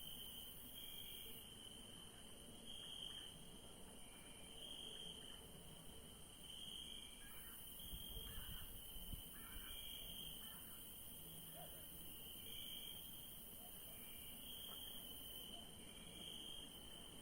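Night insect chorus: crickets chirping, one pulsing about once a second, over a steady high-pitched insect trill.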